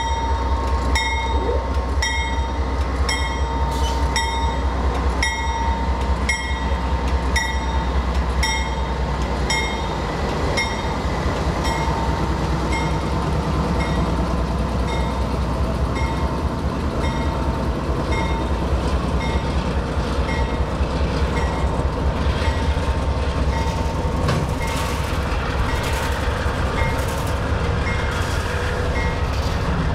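Canadian Pacific diesel locomotive passing close by and pulling away, its engine rumbling and its bell ringing steadily at a bit over one stroke a second. After about ten seconds the engine rumble eases as boxcars roll past, with sharp wheel clicks on the rails near the end.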